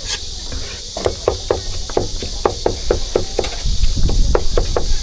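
Cleaver chopping on a wooden board, fast and even at about four strokes a second, after a short pause near the start; typical of a roujiamo vendor mincing stewed meat for the bun.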